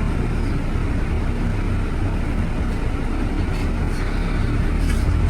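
Steady low rumble of road vehicles, an even mix of engine and tyre noise without breaks.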